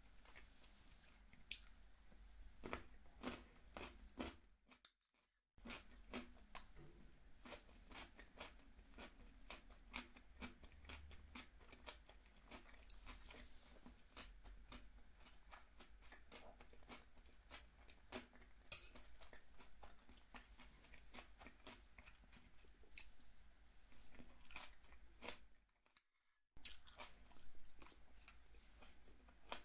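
Close-miked chewing of steamed snow crab meat: soft wet mouth clicks and crackles. The sound drops out to silence twice, briefly.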